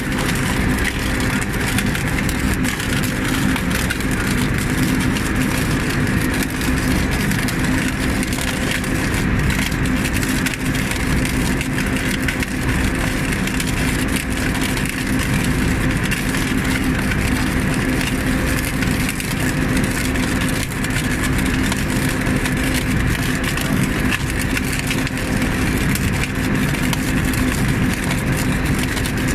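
Engine of a rail welding machine running steadily, with a constant hum.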